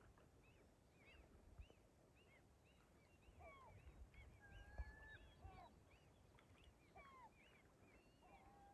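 Birds chirping faintly: many short, quick calls, with a couple of longer whistled notes around the middle.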